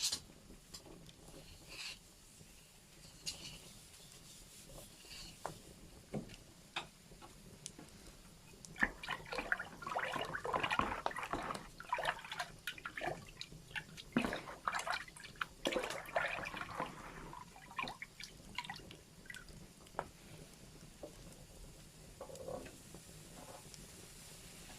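Wood fire crackling in a fireplace: scattered sharp pops and snaps, thickening into dense, busy crackling for several seconds through the middle before thinning back to occasional pops.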